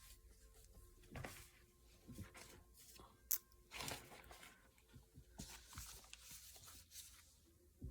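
Faint rustling, crinkling and soft knocks of a painting being handled and shifted about, in short irregular bursts.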